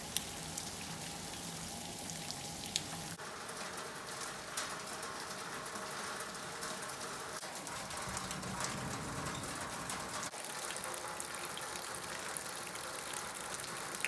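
Steady rain falling, with a few sharp drop ticks standing out.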